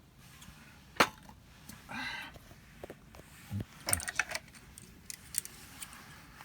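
A sharp click about a second in, then a brief pitched sound and a quick series of small metallic clinks and taps, like utensils or tableware being handled.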